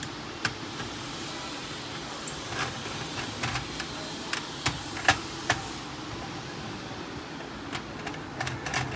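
Scattered light clicks and metallic taps as a screwdriver takes out the four screws holding the laser unit in a Canon MF4820d laser printer, over a steady low hum.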